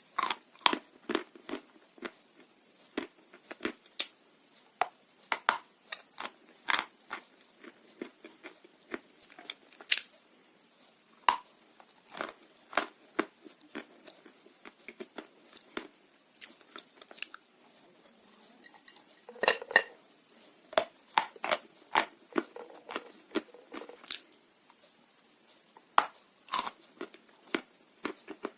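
Close-miked biting and chewing of chunks of dry blue Uzbek edible clay: a long run of sharp, irregular crunches and cracks, with a denser burst of crunching about twenty seconds in.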